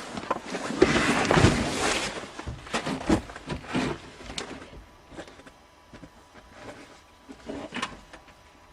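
Car hood being opened and handled: a scraping rustle about a second in, then a series of clunks and knocks that die away, with one more knock near the end.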